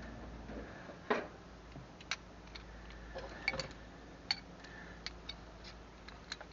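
Irregular light metal clicks and taps of hand tools being worked, a dozen or so spread unevenly, some with a short ring.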